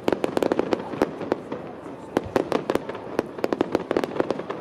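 Fireworks display: rapid sharp cracks and bangs, several a second, coming in bunches like crackling shells going off overhead.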